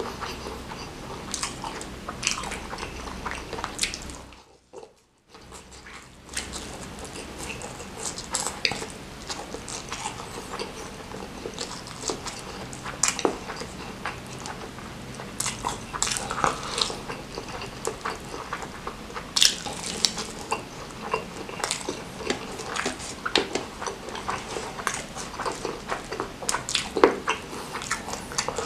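Close-miked mouth sounds of a person eating spicy smashed fried chicken with his fingers: wet chewing and lip smacking, with many short clicks and crackles. The sound briefly drops out about five seconds in.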